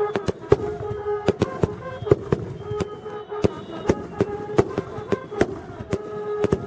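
Fireworks going off in quick, irregular succession: sharp bangs and pops, several a second. A steady tone runs underneath them, breaking off and resuming.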